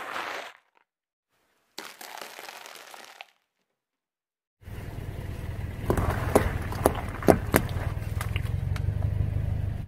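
Plastic toy cars cracking and snapping as they are crushed: a few sharp cracks over a steady low rumble, after two brief crunching bursts cut apart by silence.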